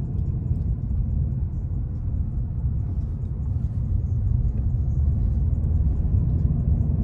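Car engine running at a steady low rumble with road noise as the car pulls away.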